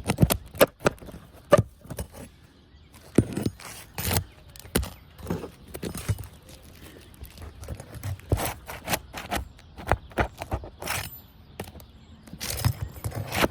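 Metal shingle nail-removal tool scraping and knocking against asphalt architectural shingles as it is worked under a shingle tab to pry out the roofing nails: irregular clicks, taps and scrapes.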